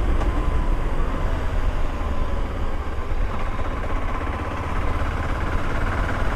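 Motorcycle engine running while riding, with heavy wind rumble on the microphone. The engine note rises slightly in the second half.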